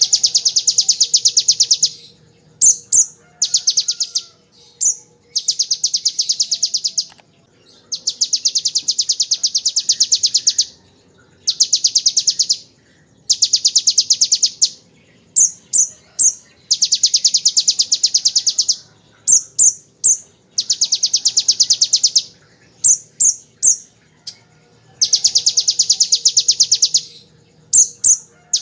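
A kolibri ninja (konin) sunbird singing the 'ciblek ngebren' pattern: rapid machine-gun-like trills copied from the bar-winged prinia, about nine of them, each one to three seconds long, with short high chirps between them.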